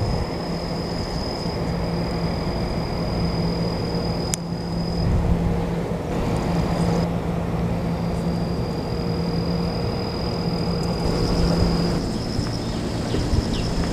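Steady vehicle rumble with a low hum, and a thin high steady tone above it that breaks off twice and turns pulsing near the end.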